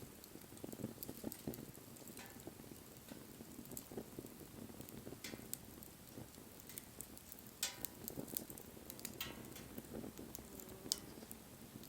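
Wood fire crackling: a soft, steady flutter scattered with sharp pops and snaps, two of them louder, a little past halfway and near the end.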